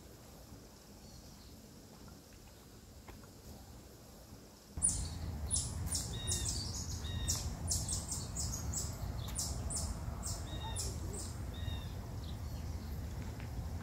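Faint outdoor ambience, then about five seconds in, woodland birds chirping in quick, repeated high notes over a steady low rumble.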